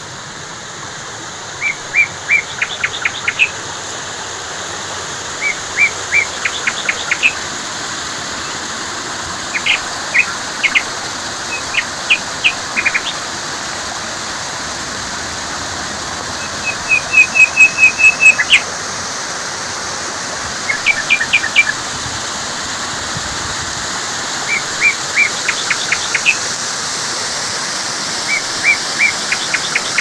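A small bird singing a short phrase of quick high notes, repeated about every four seconds, over the steady rush of water flowing fast down a small irrigation channel.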